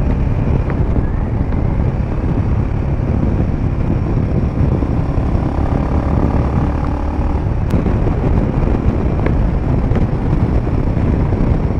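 Royal Enfield Himalayan 450's single-cylinder engine running at speed through an aftermarket Power Rage exhaust, with heavy wind buffeting on the microphone.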